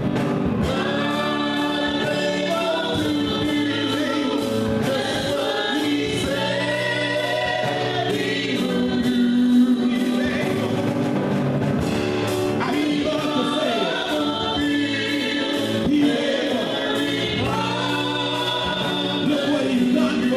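Gospel music with a choir singing over a steady instrumental backing.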